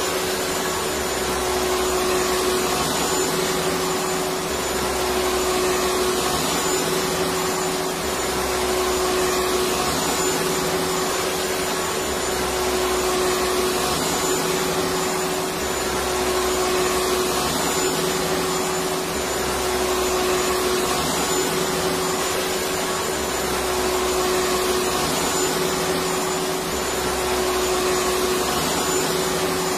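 Electric vacuum cleaner running steadily: a continuous rush of air with a steady motor hum.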